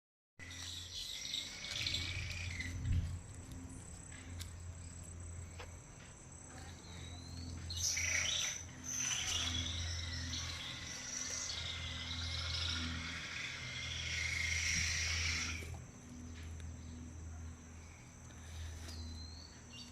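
Birds calling and singing over a steady high-pitched insect drone, with the bird calls busiest through the middle stretch.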